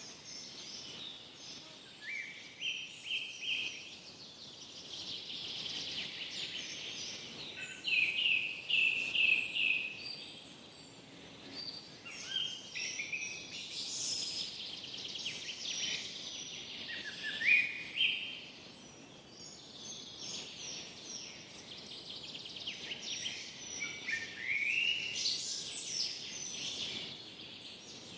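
Forest songbirds singing, with phrases of quick chirps and trills every few seconds over a faint steady background hiss.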